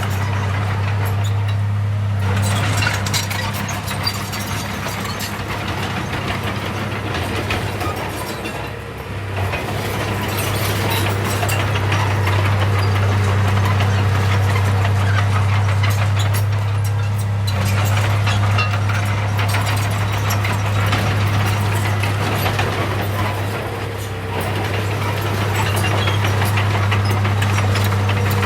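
Diesel engine of a heavy earthmoving machine running steadily, with a clattering, rattling noise over it that eases off briefly twice.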